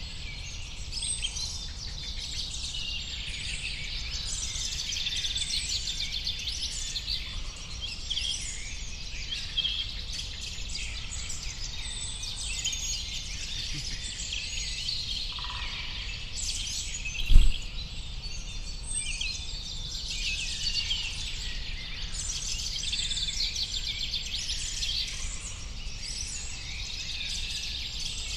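Dense chorus of many small birds chirping and twittering, with a steady low rumble underneath. One brief low thump a little past the middle.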